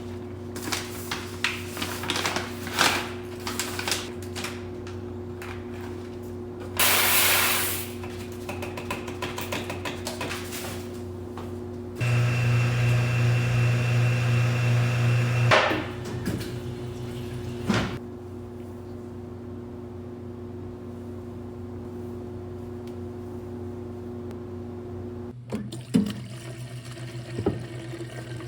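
Cafe kitchen work sounds: light clatter and clicks over a steady appliance hum, a brief hiss of water about seven seconds in, and a small motor-driven appliance running for about three and a half seconds near the middle.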